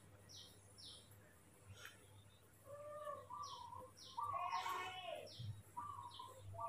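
A songbird chirping faintly and repeatedly, short high downward chirps about two a second with a brief pause partway through. A few lower, longer calls come in between, the loudest about four and a half seconds in.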